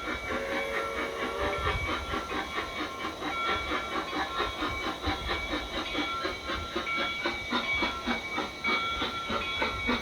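Garden-railway model steam train running into the station: an even rhythm of chuffs and wheel clicks on the track, with a short whistle toot about half a second in.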